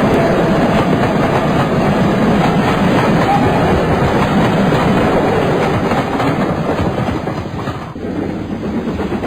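Heritage passenger train running along the track: a steady rumble and clatter of wheels on rails, easing off slightly about eight seconds in.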